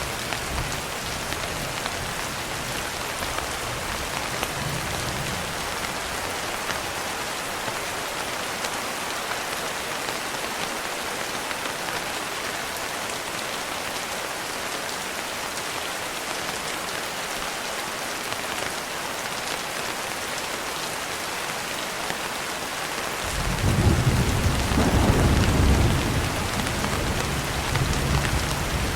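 Steady heavy rain on a window, with low thunder. A rumble fades away in the first few seconds, and a louder roll of thunder sets in suddenly about three-quarters of the way through, peaks for a couple of seconds, then rumbles on more softly.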